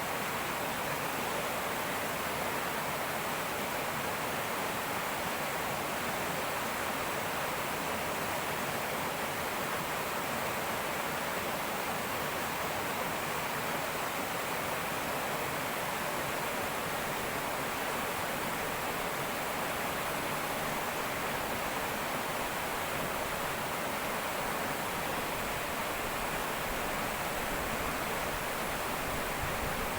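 Fast-flowing river rushing and burbling over rocks in a steady, unbroken wash of water noise.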